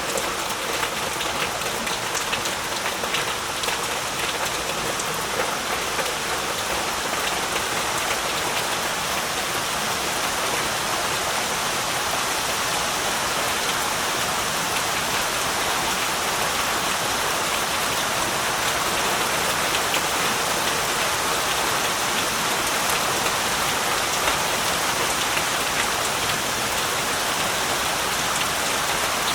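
Heavy rain falling steadily, a dense even hiss with many fine drop taps throughout.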